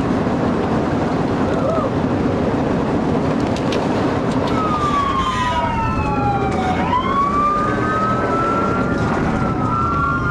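Steady road and engine rumble of a car at speed, with several police sirens wailing over it from about four seconds in, their rising and falling tones overlapping.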